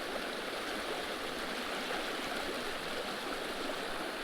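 Small trout creek's water flowing past a log jam, a steady even rush.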